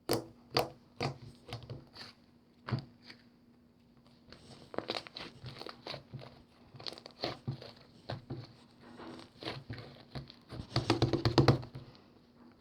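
Slime being pressed, poked and pulled by hand, giving irregular sticky clicks and crackles; about eleven seconds in comes a quick, louder run of crackling.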